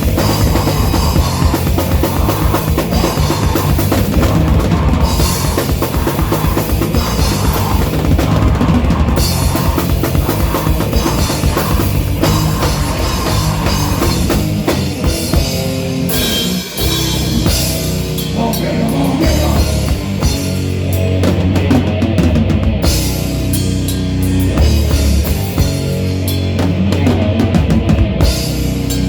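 A live heavy rock band playing loudly, with the drum kit to the fore. About two-thirds of the way through the band breaks off for a moment, then comes back in with longer held low notes under the drums.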